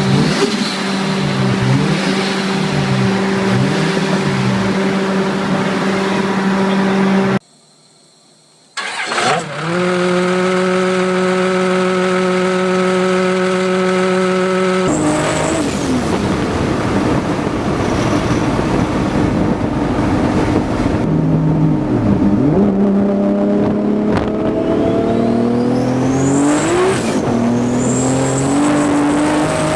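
Turbocharged vehicle engines, several clips in a row. First a steady engine note, then a brief cut to near silence, then another engine holding a steady note. After that an engine revs up with its pitch climbing in several steps, and a faint high whistle rises near the end.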